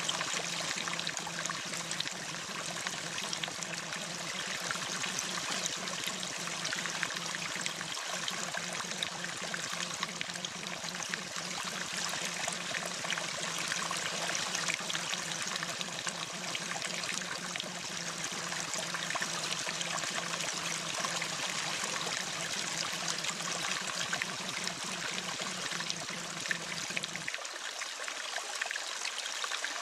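Steady rain, an even hiss of falling water with no change in strength. A faint low steady tone lies underneath and cuts off about three seconds before the end.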